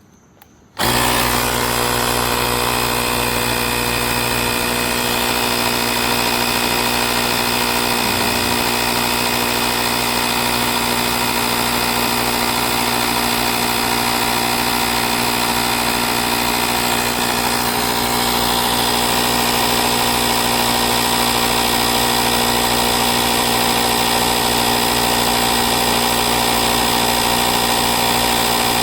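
AstroAI L7 portable electric air compressor switching on about a second in and then running steadily, a loud, even motor-and-pump drone with several steady tones.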